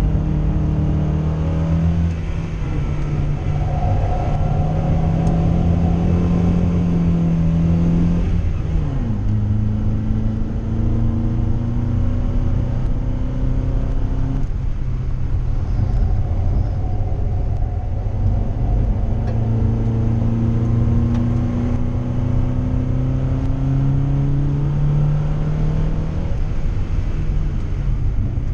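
In-car sound of a 1959 Volvo's 1600cc four-cylinder engine pulling hard through the gears. The revs climb slowly, drop sharply about eight seconds in at an upshift, climb again, ease off briefly midway, then climb once more before another drop near the end. Road and wind noise run underneath.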